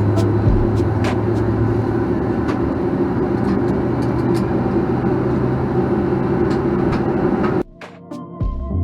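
Steady cabin rumble and air hiss inside a Boeing 737-900ER being pushed back from the gate, with a low hum underneath. About seven and a half seconds in it cuts off suddenly and music with drum hits begins.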